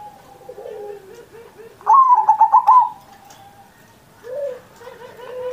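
Zebra dove (perkutut) cooing: one loud, rapidly pulsed coo phrase about two seconds in, with quieter, lower drawn-out coos before and after it.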